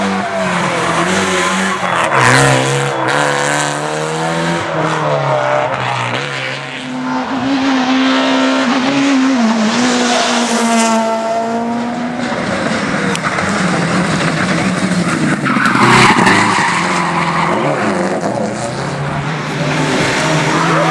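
Rally cars driven flat out on a stage. Engines rev up and drop back repeatedly through gear changes, with tyres squealing and skidding.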